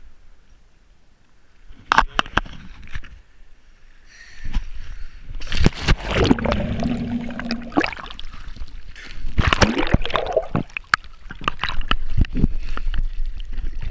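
Sea water sloshing and splashing up close, in irregular surges with sharp knocks and gurgles.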